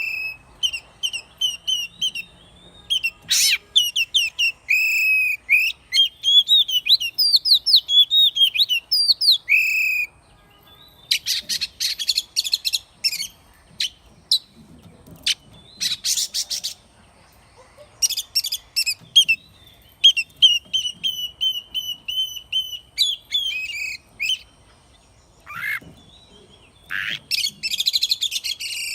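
Oriental magpie-robin singing: a varied run of whistled phrases, glides and sharp chirps, with harsh rasping notes in the middle and again near the end.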